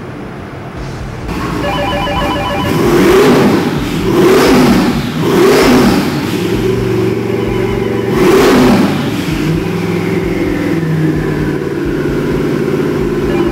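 Twin-turbocharged 427 cubic inch small-block Chevrolet V8 running on an engine dyno, revved up and back down four times to about 4700 rpm, then settling to a fast idle near 2200 rpm while a high whistle from the turbochargers falls slowly away. A rapid electronic beeping sounds near the start and again about midway.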